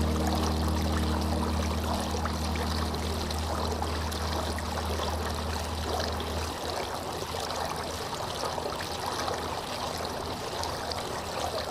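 Running water, a steady flowing and trickling rush. A low held tone from the background music fades out about halfway through.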